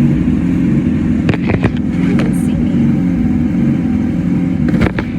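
A vehicle engine running steadily with a low, even hum, with a few sharp clicks about a second in and again near the end.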